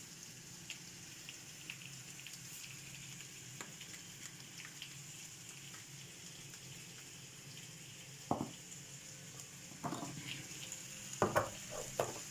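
Oil sizzling softly under vegetables in a clay tajine, a steady light crackle. A few sharp knocks come near the end.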